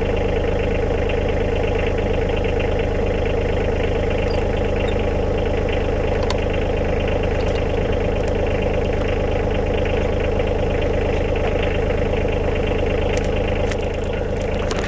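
Diesel tractor engine idling steadily, with a few light clicks near the end.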